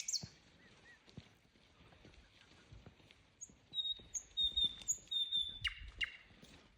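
Nightingale singing: after a few quiet seconds, a run of thin, high whistled notes, then two sharp downward-sweeping whip notes near the end.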